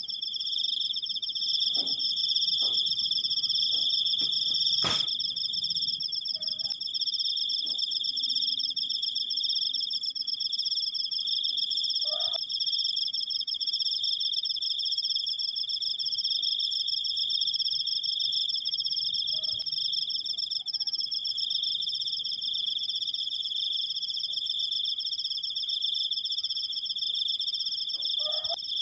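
Crickets giving a long, unbroken high trill, two pitches sounding together. A single sharp click about five seconds in.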